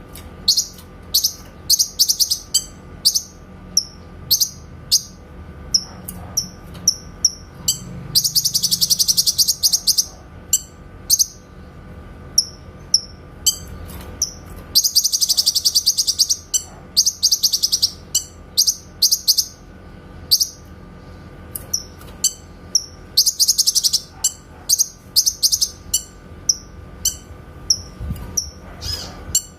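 Cucak kinoy songbird calling: a run of short, sharp, high whistled chips several a second, broken three times by a fast rattling trill about two seconds long, the rapid-fire 'tembakan' phrase that keepers prize.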